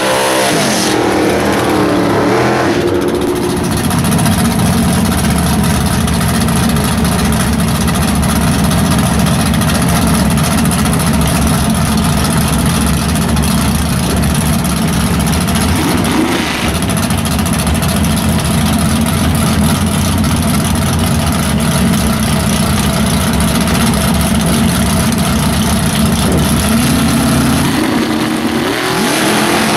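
Small-block Mopar V8 with W7 heads in a Plymouth Duster drag car: revving hard through a burnout for the first few seconds, then running at a loud steady idle while staged at the line. Near the end the revs climb again as it readies to launch.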